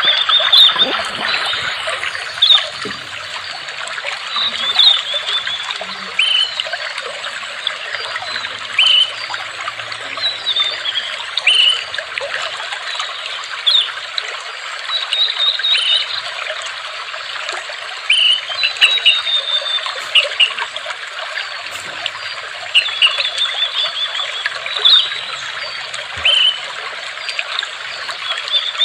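Water steadily trickling and babbling, with birds chirping over it in short calls every second or two.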